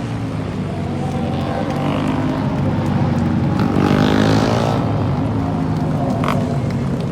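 Moto3 racing motorcycles' 250 cc single-cylinder four-stroke engines running at high revs, their pitch rising and falling through gear changes. The sound is loudest about four seconds in, as a bike comes close.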